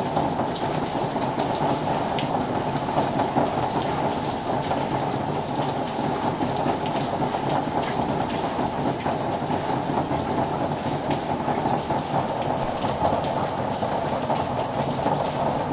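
Heavy rain pouring down steadily: a dense, even downpour hiss full of small drop patter.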